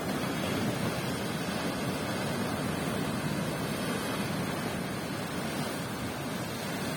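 Atlantic surf: waves breaking and washing in a steady, continuous rush, with some wind on the microphone.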